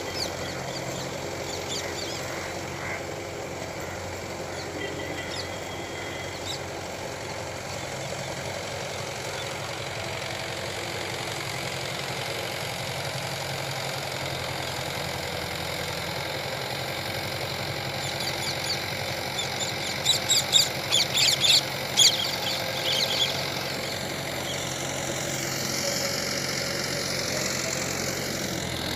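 Farm tractor's diesel engine running steadily while it tills with a rotavator. A cluster of sharp high-pitched sounds stands out for about three seconds near the end.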